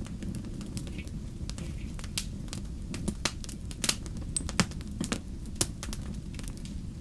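Wood fire crackling in a fireplace: a steady low rumble of flames with irregular sharp pops and snaps, a few louder ones in the middle.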